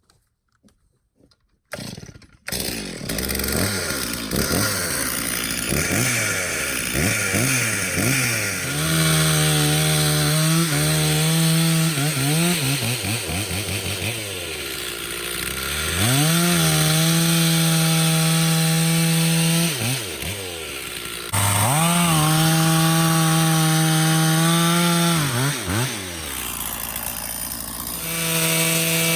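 Stihl MS 460 chainsaw with a 25-inch bar and carbide chain starting about two seconds in and being revved up and down several times, then held at full throttle cutting wood, with the engine dropping off and picking back up between cuts.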